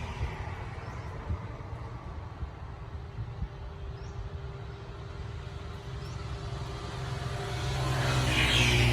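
A motor vehicle's engine running with a steady low rumble, then growing louder near the end as the vehicle approaches and passes close by.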